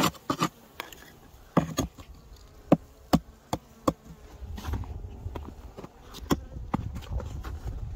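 Honeybees buzzing in a hive that is being checked for life after a snowstorm, with a series of sharp knocks and taps over the buzz and a low rumble in the second half.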